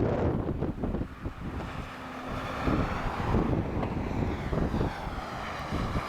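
Jet airliner engines on approach, a whine growing louder from about a second and a half in, over gusty strong wind buffeting the microphone.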